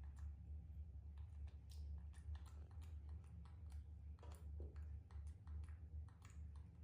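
Faint, irregular small clicks and ticks, several a second, over a steady low hum.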